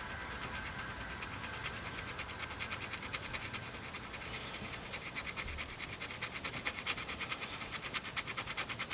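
Rapid hand scraping of carbon deposits with a small metal tool, several short scratchy strokes a second that grow sharper from about halfway through.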